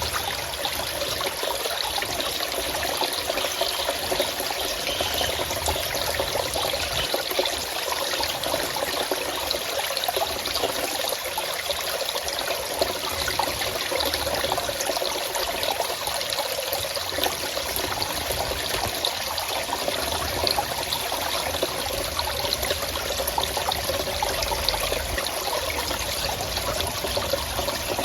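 Forest stream of water trickling and splashing steadily over rocks.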